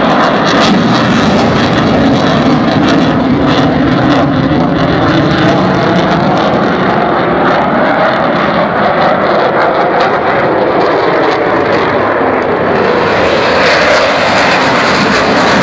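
Loud, steady engine noise of a display aircraft flying overhead, growing brighter and hissier near the end.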